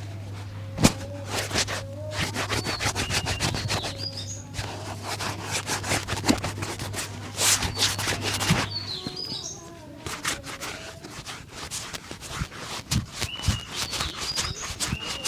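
Quick repeated strokes of a shoe-shine brush working polish into a shoe, busiest in the first two-thirds. Birds chirp in the background, and a low steady hum cuts off about two-thirds of the way through.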